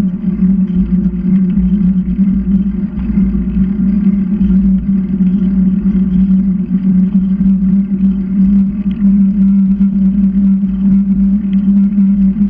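Steady road and wind rumble from a bicycle ride, with a loud constant low hum throughout.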